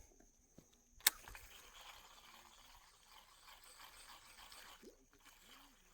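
A sharp click, then a baitcasting reel being cranked to retrieve a lure, with a faint uneven scraping whir. He calls the reel noisy and in bad shape.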